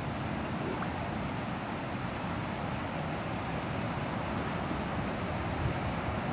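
Steady wind noise rumbling on the microphone in strong wind, with a faint high chirping repeated about four times a second behind it.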